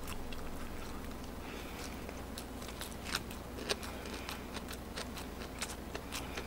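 A person chewing a mouthful of food close to the microphone, with scattered small wet mouth clicks at irregular intervals over a steady low hum.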